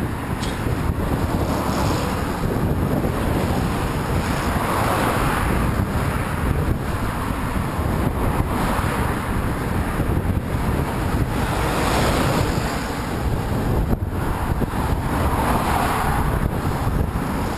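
Strong headwind buffeting the microphone of a camera on the move, a steady heavy rumble with two broader swells about five and sixteen seconds in.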